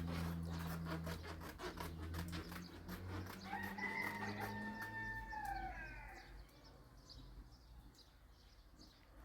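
A rooster crowing once, a held call that falls off at the end, about three and a half seconds in. Underneath, a steady low hum fades out about five seconds in.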